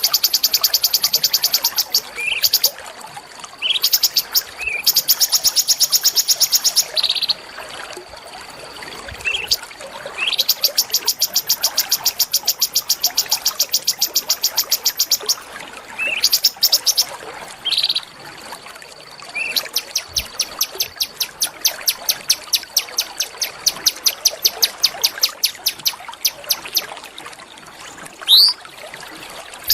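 A small songbird singing long, fast trills of rapidly repeated high notes, each lasting several seconds, broken by short rising whistles.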